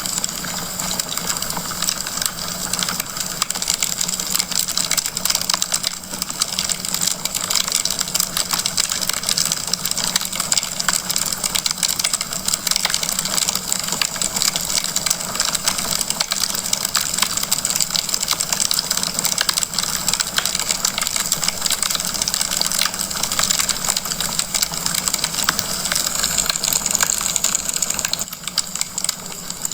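Wood fire crackling in a fireplace: a steady stream of dense small pops and snaps over a constant hiss.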